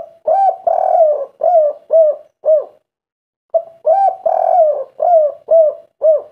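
Spotted dove (tekukur) singing the 'kuk 3' song twice. Each phrase is a few low coos, a longer drawn coo, then three short separate 'kuk' notes, with a pause of about a second between the phrases.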